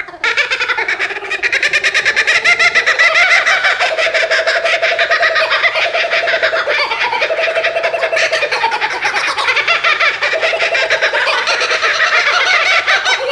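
Birds calling in a dense, continuous chatter of fast, rapidly repeated notes.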